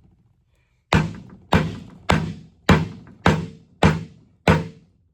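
Rubber mallet striking the aluminum housing of a John Deere 430 baler gearbox: seven evenly spaced blows, a little under two a second, tapping to split the two halves of the case.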